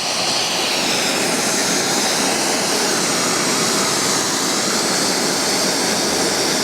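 Gas torch or burner flame burning with a loud, steady rushing hiss while it heats a crucible of molten lead and the mould for casting.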